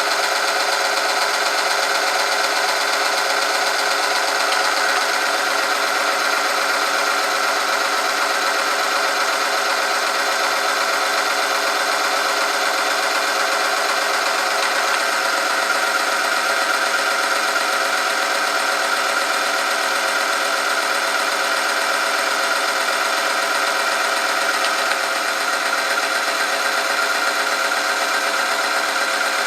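Oil-film test machine running steadily under load, its rotating part grinding against a metal test sample in engine oil heated to 100°C. The sound is a loud, steady metallic whine with many overtones.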